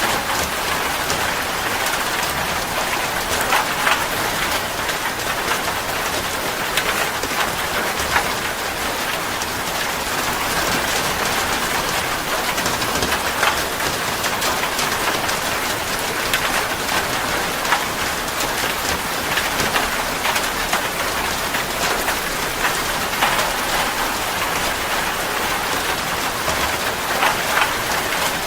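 Steady rain falling on a surface, an even hiss dotted with many close drop impacts.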